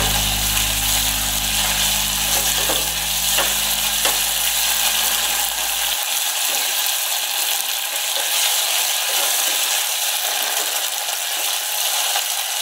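Tomato paste, garlic and chili flakes sizzling in hot oil in a saucepan, stirred with a wooden spoon, with a couple of light taps a few seconds in. A low held tone fades out about six seconds in.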